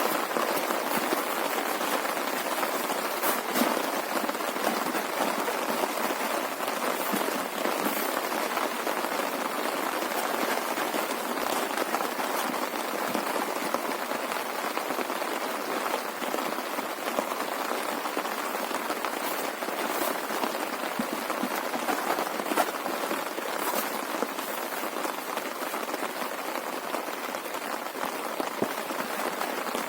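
Heavy rain falling steadily, with scattered sharper drop impacts standing out from the constant hiss.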